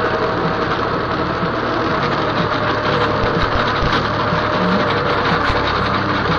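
Tractor engine running steadily while working.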